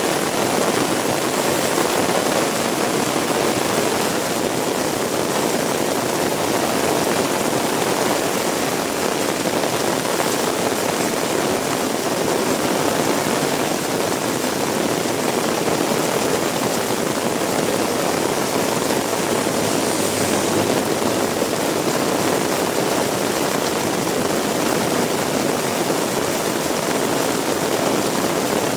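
Heavy rain pouring steadily: a dense, even hiss of rainfall that holds at the same level throughout.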